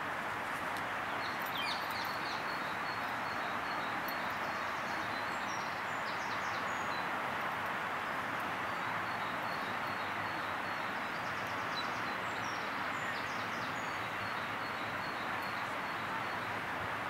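Small birds chirping in runs of short high notes, over a steady even hiss of outdoor background noise.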